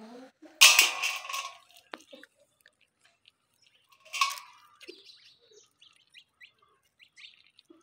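Birds chirping in short, scattered calls, with two louder bursts of noise, one about half a second in and another about four seconds in.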